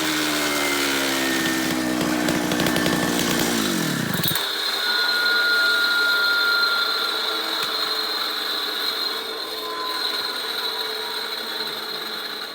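Power saw cutting concrete. Its motor's pitch falls steadily over the first four seconds. It then gives way to a steady high whine over gritty grinding noise, which stops abruptly at the end.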